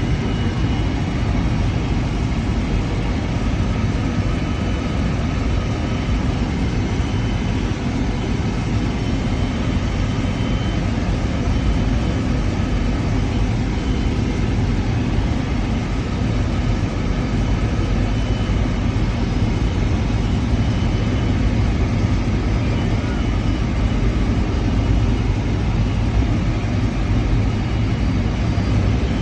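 Steady engine and airflow noise inside the cabin of a Boeing 757-300 powered by Rolls-Royce RB211 turbofans, a deep even rumble with faint steady tones above it.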